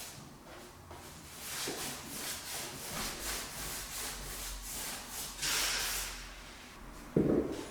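Repeated rough sanding strokes on wood, a few a second, with a louder stroke about two-thirds of the way through, then a single thump near the end.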